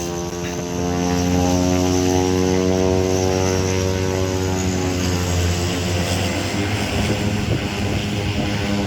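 Propeller-driven skydiving jump plane taking off under full power: a steady, loud engine-and-propeller drone whose pitch slowly falls in the second half as the plane moves away.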